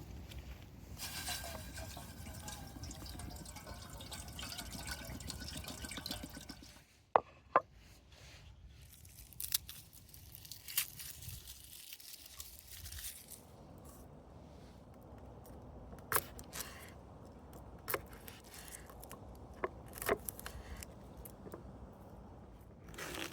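Water pouring into a cooking pot for about seven seconds, then stopping abruptly. A few sharp clicks and light knocks follow.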